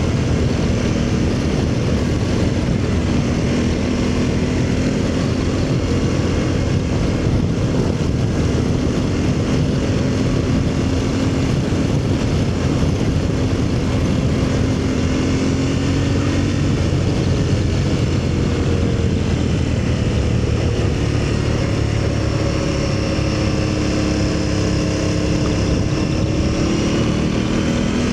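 Aprilia Tuareg 660's parallel-twin engine running steadily under way, its pitch slowly rising and falling with speed, over steady wind and road noise.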